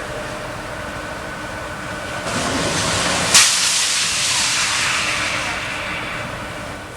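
Truck trailer fire burning with a steady hiss that grows louder about two seconds in. A single sharp crack comes about halfway through.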